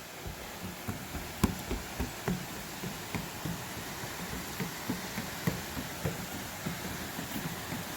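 Water slapping against the hull of a moving tour boat: irregular low knocks, a few a second, with a sharper one about a second and a half in, over a steady rush of water and wind.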